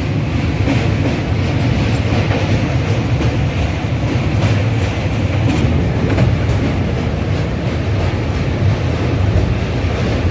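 A passenger train running with a steady, heavy low rumble, its wheels clacking irregularly over the rail joints.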